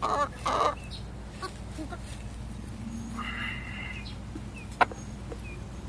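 Chickens clucking: a quick run of clucks at the start and a harsher call about three seconds in, with one sharp tap near the five-second mark over a steady low hum.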